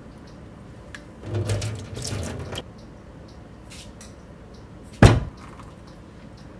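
Household handling sounds: about a second of rustling or sliding, then a single sharp knock about five seconds in.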